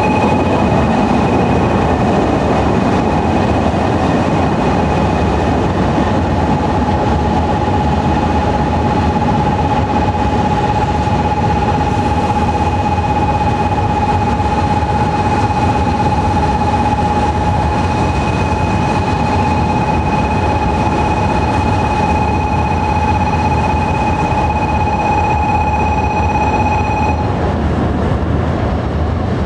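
N700 series Shinkansen train running into the station platform, a steady loud rumble of rolling and running noise as its cars go by. A steady high tone sounds over it and cuts off abruptly near the end.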